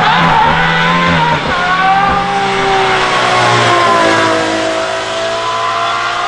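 Aston Martin Valkyrie's naturally aspirated Cosworth V12 running hard at high revs as the car comes past and pulls away. Its pitch slides gradually down over the first few seconds and then holds steady.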